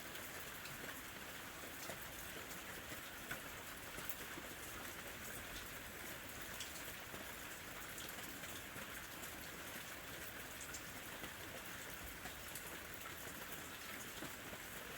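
Steady summer rain falling on a surface, an even hiss dotted with many small drop ticks.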